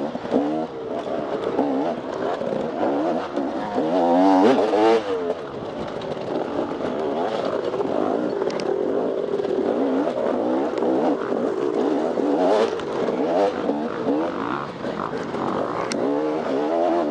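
Off-road dirt bike engine under hard riding, its pitch rising and falling over and over as the throttle is worked, with a few sharp clicks and knocks.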